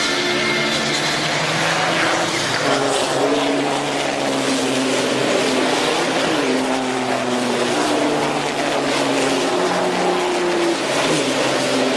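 Racing trucks' diesel engines running hard on track. Several engines are heard at once, their pitch stepping up and down as they rev and shift gears.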